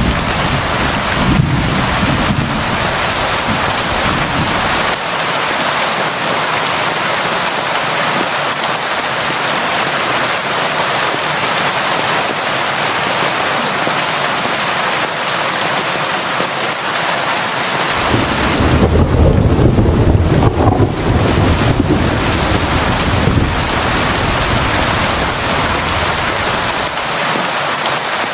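Constant rain, a dense unbroken hiss. Low rolls of thunder rumble under it in the first few seconds and again from about two-thirds of the way through, the second roll the louder and longer.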